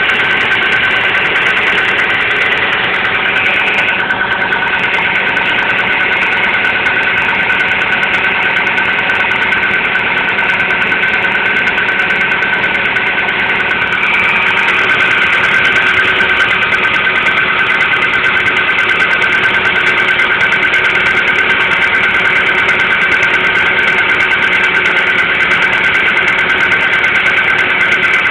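Hyundai Getz engine running steadily at idle, with a steady high-pitched ring over the engine note. This is the noise the owner calls a knock or a ringing and is asking about. It gets a little louder about halfway through.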